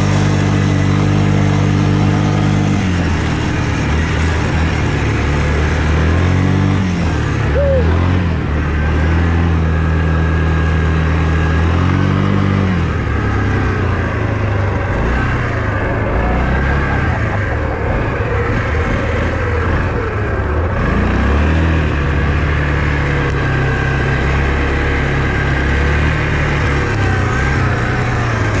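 An off-road vehicle's engine running while being ridden. Its pitch drops about three seconds in, rises and falls again around seven, twelve and twenty-one seconds in, then holds steady, all over a rough rumbling noise.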